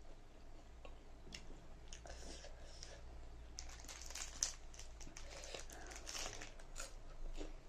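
A person eating spicy instant ramen noodles: a string of slurps, chewing and mouth clicks with scattered rustles, the loudest a bit over four seconds in.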